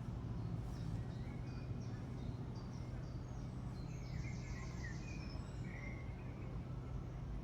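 Outdoor ambience: a steady low rumble with small birds chirping, and a rapid trill with warbling notes about four seconds in.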